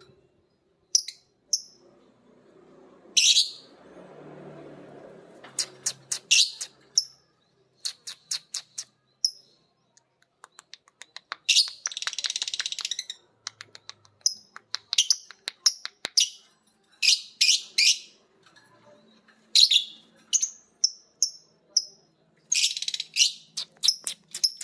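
Lovebirds calling with short, sharp, high chirps throughout, broken by fast runs of clicking notes and a dense rapid chatter of about a second and a half, about twelve seconds in.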